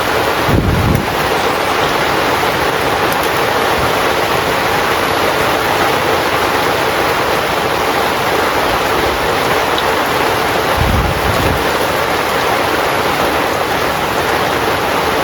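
Heavy rain falling steadily on a small pop-up tent, a dense even hiss. Two brief low rumbles come through, one about half a second in and one around eleven seconds.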